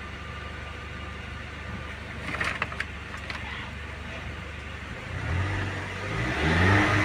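Range Rover engine idling steadily, with a few light clicks near the middle, then revved hard from about five seconds in, its pitch climbing. It takes the throttle cleanly without sputtering, a sign that fuel is reaching the engine now that the fuel pump's wiring connector has been repaired.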